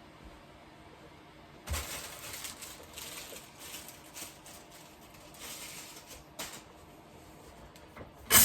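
Quiet, irregular handling noises, scraping and knocking, at an espresso machine, ending in a short, loud burst of hiss-like noise near the end.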